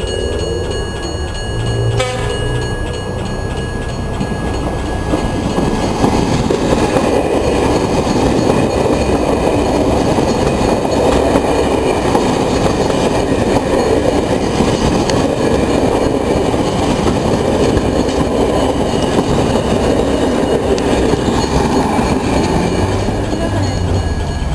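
Passenger train with a steady horn-like tone for about the first two seconds, then passing close by with a loud, continuous rumble of wheels and carriages on the rails.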